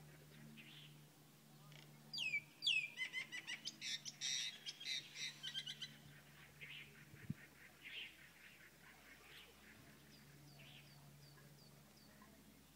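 Birds calling: two sharp downward-sliding whistled calls about two seconds in, then a quick run of loud chirps that thins into softer, scattered chirps. Near the end a faint series of short, high notes repeats about every half second, over a faint steady low hum.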